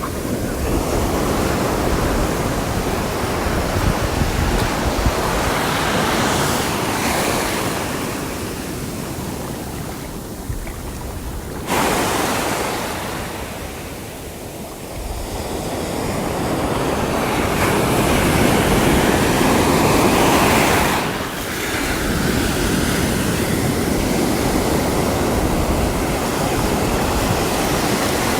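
Sea waves washing onto the shore in a continuous rush of surf, swelling and ebbing; the loudest surge builds around twenty seconds in and falls away.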